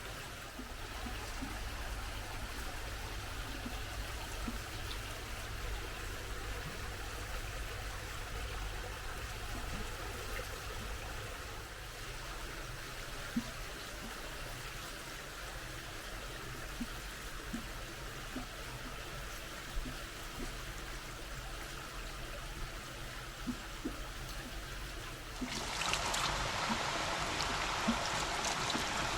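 Water running and trickling steadily, with faint small drips. Near the end it suddenly becomes a louder, brighter rush.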